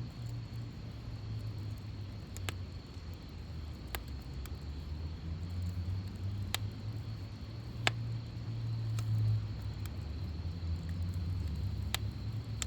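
Wood fire crackling, with a sharp pop every second or two over a steady low rumble.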